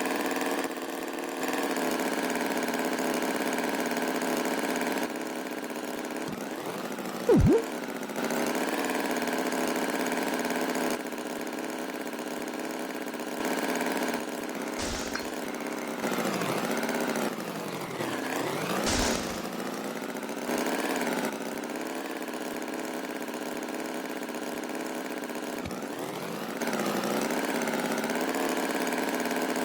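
An engine running steadily, its loudness stepping up and down every few seconds, with one short sharp sound about seven seconds in and two brief sweeping sounds later on.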